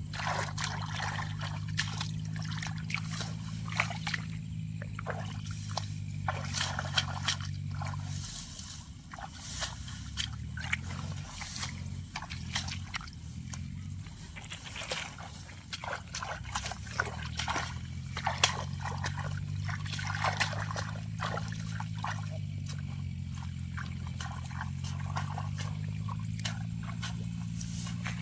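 Shallow muddy water splashing and sloshing in many short bursts as fish are caught by hand. A steady low hum runs underneath and changes pitch about eight seconds in, then again later.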